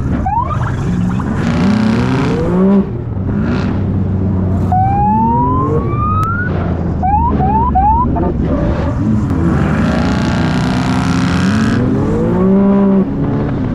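Vehicle engines revving over a steady low rumble, with a siren giving a long rising whoop about five seconds in, followed by several quick rising chirps.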